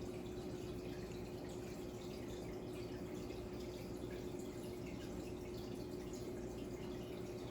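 Fish tank filter trickling and dripping water, with a steady motor hum underneath.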